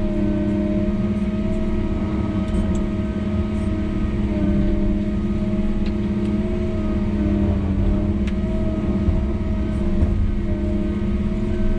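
Diesel engine of a heavy logging machine running at a steady speed, a constant low hum.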